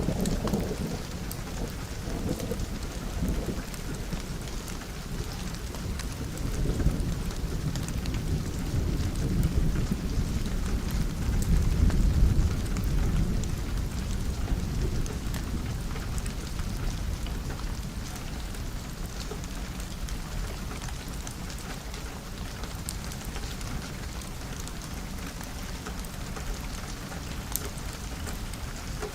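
Steady rain pattering on a window, with thunder rumbling low several times; the longest and loudest roll comes about twelve seconds in, then the thunder dies away and the rain carries on alone.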